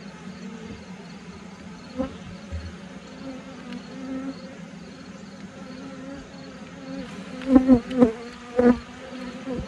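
Honeybees buzzing steadily around an open hive, with a sharp knock about two seconds in and a quick run of three or four louder knocks near the end.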